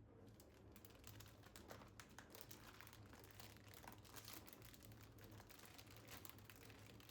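Plastic or paper packaging crinkling and rustling as it is handled, in quick crackles that come and go throughout.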